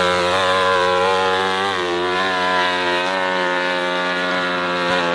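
Racing engine running hard at high revs, its pitch held nearly steady with a slight dip about two seconds in.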